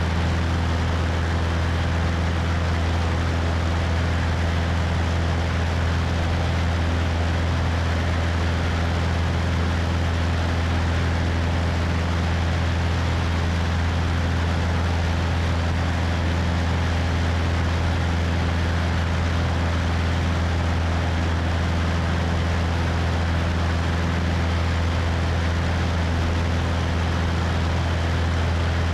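A Cessna 172's propeller engine droning steadily in flight, a deep, even hum with wind rushing over the wing-mounted microphone.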